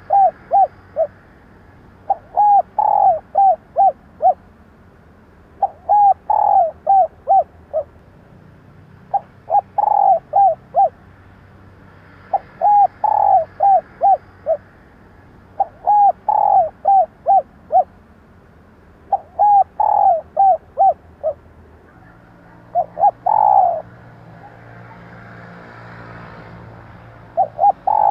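Female spotted dove cooing, used as a lure call: repeated phrases of five or six short coos, one phrase about every three and a half seconds. Near the end a shorter phrase with a drawn-out note is followed by a few seconds of soft hiss, then the next phrase begins.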